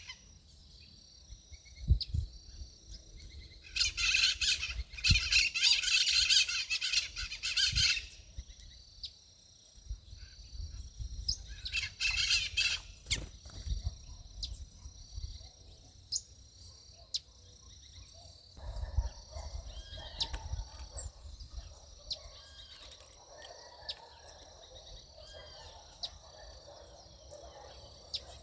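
Backyard birds chirping and twittering, with two spells of dense, busy twittering, one about four seconds in lasting several seconds and a shorter one around twelve seconds, and scattered single chirps between.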